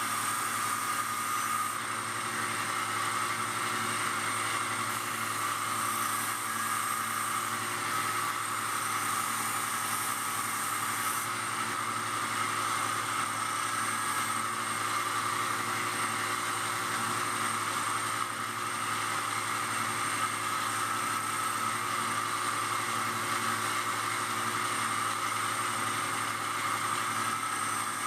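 Power grinder running steadily with a constant whir and hiss.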